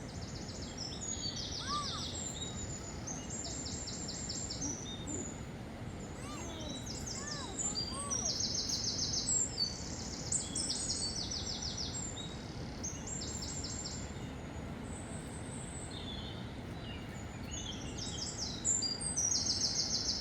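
Several birds calling with rapid, high-pitched trills, one after another, with a few lower chirps mixed in, over a steady background hiss.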